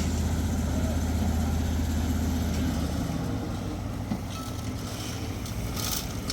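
An engine running steadily with a low hum, easing slightly after about three seconds, with a short scraping hiss near the end.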